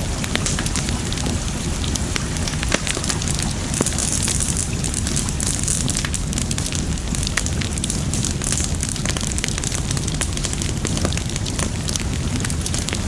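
Wood fire crackling, with many sharp pops scattered throughout, over a steady rush of water.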